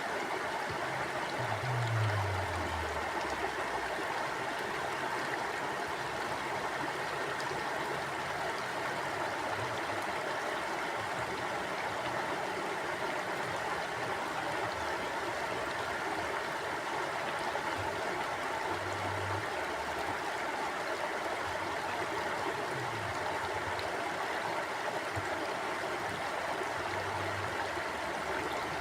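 Mountain stream flowing steadily, a constant even rush of water. A brief low rumble that falls in pitch comes about two seconds in.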